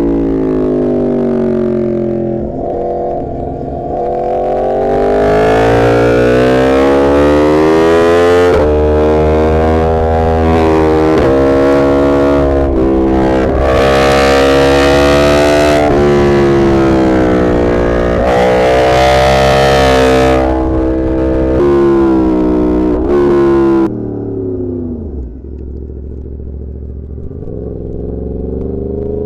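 Yamaha MT-10's crossplane inline-four engine pulling hard through the gears, the revs climbing and then dropping back at each upshift. About two-thirds of the way through the throttle closes and the engine goes quieter, then the revs build again near the end.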